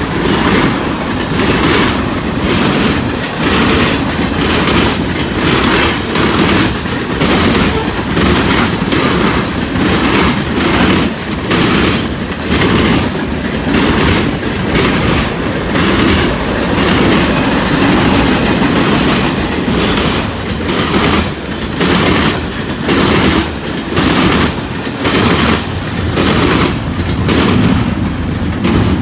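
CSX freight train's cars rolling past, their wheels clacking over the rail joints in a steady rhythm of about one pulse a second.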